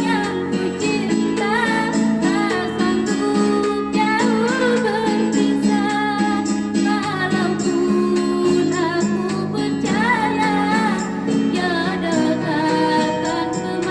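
A girl's voice singing a slow love song with vibrato, over plucked guitar accompaniment.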